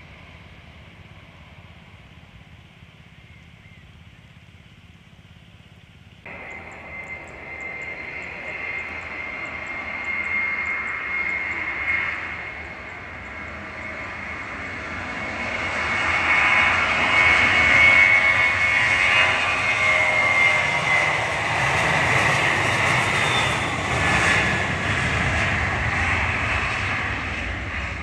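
Jet engines of a Boeing 737-300 (CFM56 turbofans): a steady high whine over a roar. It comes in abruptly about six seconds in, after a faint rumble, grows to its loudest past the middle as the plane passes close, then eases slightly.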